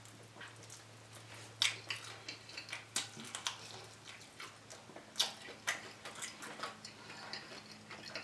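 Close-up mouth sounds of eating a sauced chicken wing: scattered wet clicks and smacks of biting and chewing, over a low steady hum.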